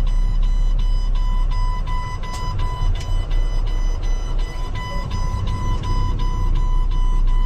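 Truck backup alarm beeping steadily, about three beeps a second, over the low rumble of a running diesel truck engine.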